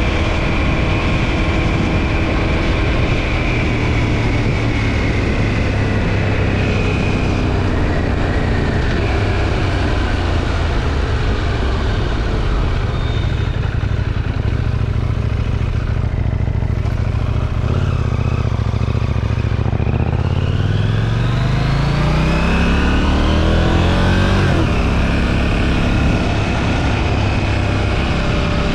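KTM 790 Duke's parallel-twin engine running through its stock exhaust under steady wind noise. The engine note falls slowly as the bike slows, then about two-thirds of the way in the revs climb steeply as it accelerates, and the note holds after that.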